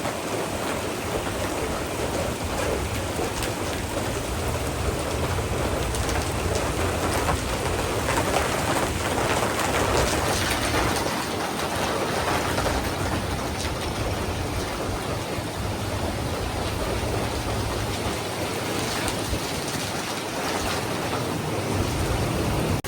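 Steady heavy rain falling, with a low rumble underneath that swells and fades.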